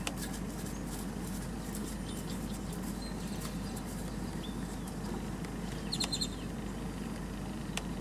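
Scattered short bird chirps and ticks over a steady low background rumble, with a quick run of sharp clicking notes about six seconds in.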